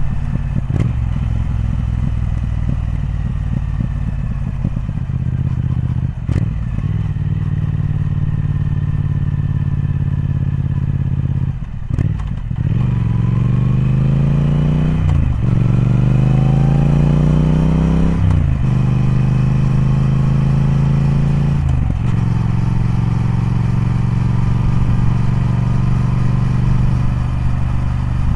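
Triumph Speed Twin's parallel-twin engine running steadily, then accelerating from about twelve seconds in. The pitch rises twice, each time broken by a sudden drop as it changes up a gear, before it settles into a steady cruise with one more gear change a few seconds before the end.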